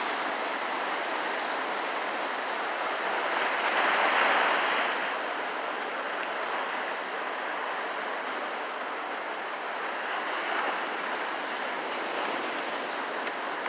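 Ocean waves breaking in a steady wash of surf, swelling louder for a couple of seconds about four seconds in.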